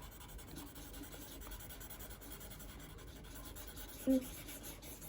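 Faint scratching and rubbing of a coloured pencil on paper as a drawing is coloured in, with a brief short voice sound about four seconds in.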